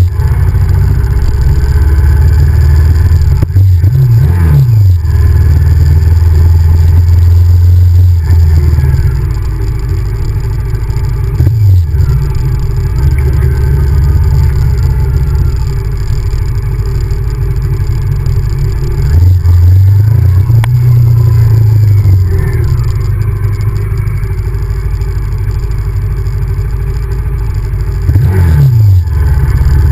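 Honda VTR1000F's 996 cc V-twin engine running under way, a loud low drone whose pitch climbs and then drops sharply about four times as the throttle opens and closes.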